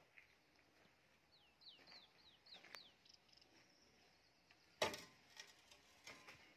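Near silence in which a bird calls a quick run of about six short, falling chirps. A single sharp knock comes later and is the loudest sound.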